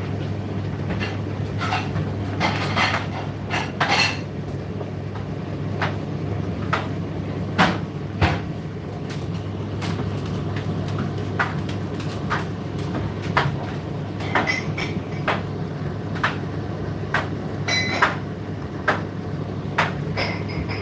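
Indesit IDC8T3 condenser tumble dryer running, its drum turning with a steady low hum. Irregular sharp clicks and metallic clinks sound over it, several times a second at the busiest, as the load tumbles against the drum.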